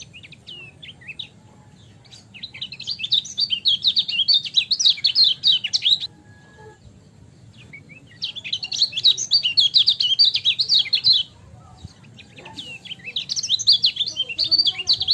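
A lemon-bellied white-eye (kecial kuning) singing rapid, high chattering song in three bursts of a few seconds each, with a few short calls before the first.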